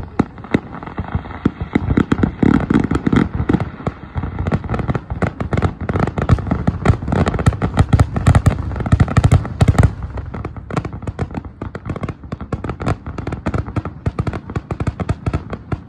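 Fireworks display: a rapid barrage of aerial shells bursting, with dense crackling pops many times a second, heaviest from about two to ten seconds in and thinning a little after.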